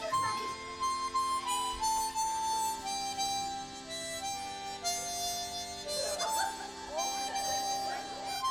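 A free-reed instrument playing a slow melody of held notes stepping up and down over sustained chords.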